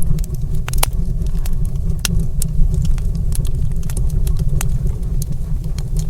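Wood fire crackling in a stone fireplace: sharp irregular pops and snaps, several a second, over a steady low rumble.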